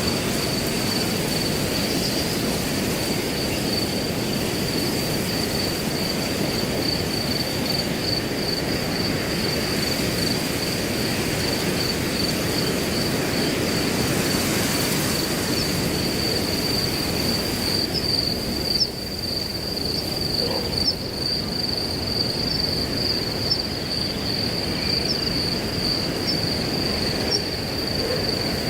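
Wind blowing through grass as a steady rushing noise, with crickets trilling in a constant high pulsing tone. A few brief high chirps sound over it in the second half.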